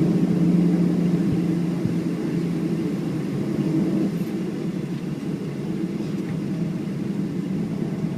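Cabin noise inside a Boeing 737-700 on the ground after landing: a steady low hum of the engines and air system, slowly getting quieter.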